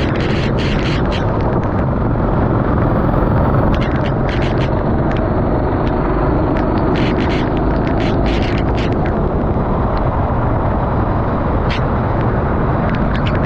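Racing kart running on a wet track: a loud, dense, steady rumble of engine and wind, with short crackles scattered throughout.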